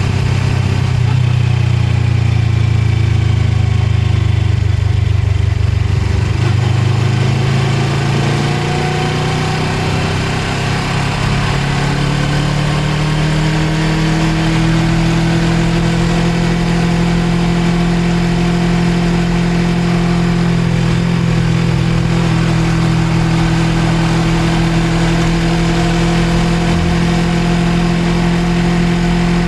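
Suzuki GSX250R motorcycle's parallel-twin engine running under way, with a steady rush of riding noise. The engine note is low at first, rises steadily as the bike accelerates for several seconds, and then holds steady at cruising speed.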